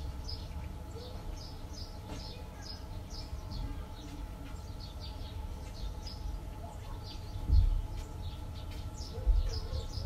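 Small birds chirping, many short high chirps at about two a second, over a steady low rumble. There are two dull thumps near the end.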